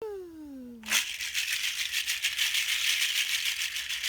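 A hand rattle shaken fast and continuously, starting about a second in. Before it, a short pitched tone glides downward.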